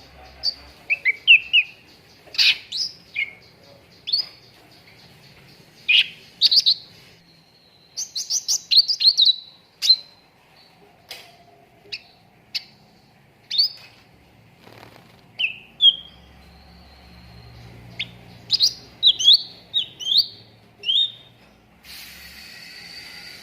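Cucak ranting songbird calling: quick bursts of sharp chirps and short whistled notes, some sliding up or down, with short pauses between bursts. A brief hissing rasp comes near the end.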